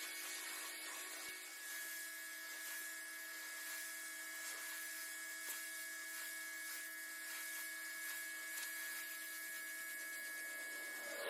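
A motor-driven tool running steadily, with a constant high whine over a hiss.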